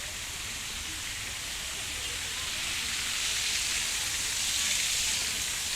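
Steady rushing and hissing of water falling in an artificial waterfall, growing a little louder about three seconds in.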